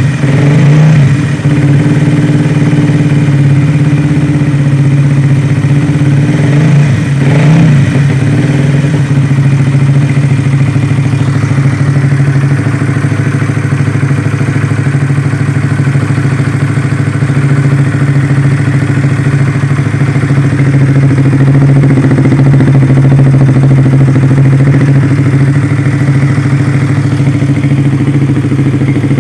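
Honda CBR150R single-cylinder four-stroke engine idling steadily through an aftermarket old Suzuki Satria F exhaust, with a short throttle blip about seven seconds in.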